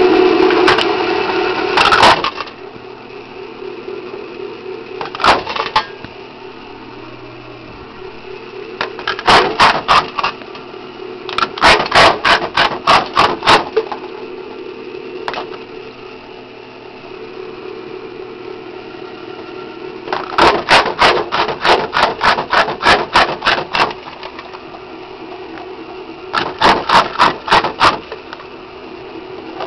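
Braun Simplex jaw ore crusher, driven by a Fairbanks Morse repulsion-start electric motor, running with a steady hum. Several spells of rapid sharp cracking, a few strokes a second, as the jaw breaks rock fed into it, with stretches of the machine running empty between them.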